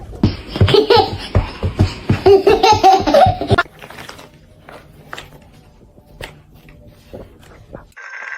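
A person laughing hard in quick repeated bursts for about three and a half seconds, then a quieter stretch with a few light clicks and knocks. A steady high tone starts near the end.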